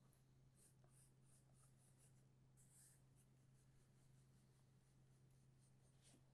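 Faint scratching of a pencil drawing on paper in short repeated strokes, over a low steady hum.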